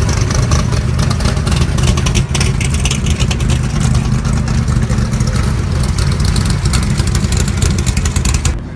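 A car engine running loud and close, a steady low drone with a rapid crackle over it, cutting off abruptly near the end.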